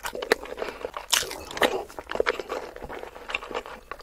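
Close-miked mouth sounds of someone eating whole seasoned boiled eggs: wet, sticky chewing with many quick smacks and clicks.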